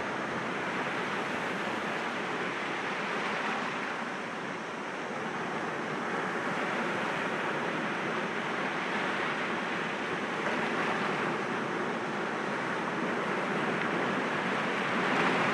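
Sea waves breaking gently against rocks: a steady wash of surf that swells and eases slightly, with a small dip about four seconds in.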